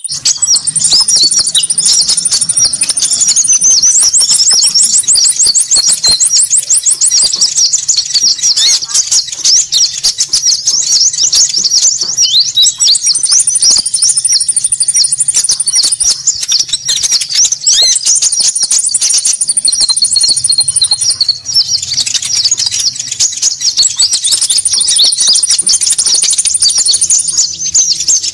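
Bird-lure recording of konin songbirds calling excitedly, a dense, unbroken chatter of high chirps with several drawn-out, very high trills that each last a second or two.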